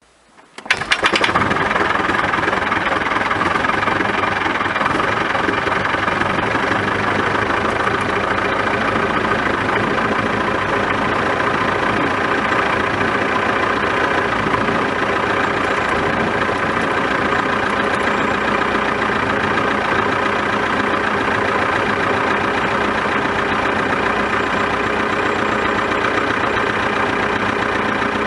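Continental C90-8F four-cylinder air-cooled engine of a Stinson HW-75 light aircraft catching with a few sharp coughs about a second in, then running steadily at idle.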